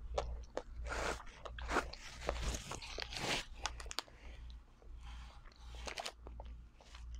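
Close-miked chewing and crunching of a chocolate- and nut-coated ice cream bar. Crisp crunches come thick in the first few seconds and give way to softer chewing.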